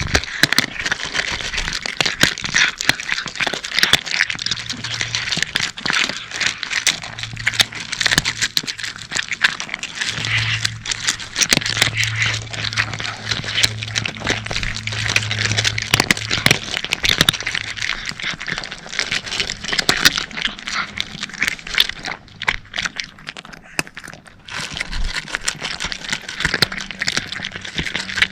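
Cats crunching dry kibble: a dense, irregular run of sharp crunches and clicks as they chew.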